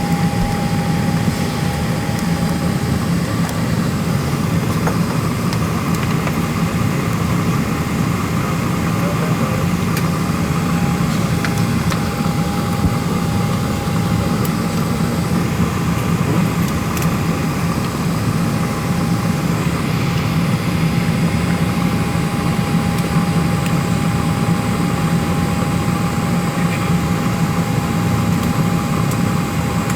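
Steady cabin drone inside a Boeing 737-700 sitting at the gate: the rush of the air-conditioning airflow over a low hum, with a constant thin whine. There are a few faint clicks and no changes in pitch or level.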